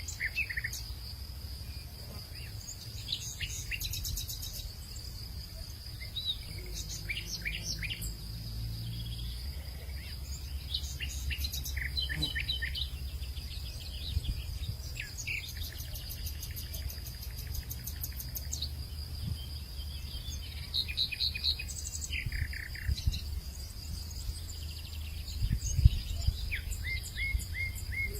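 Many birds chirping and trilling in short, scattered calls over a steady high insect drone and a low rumble of wind. One brief low thump near the end.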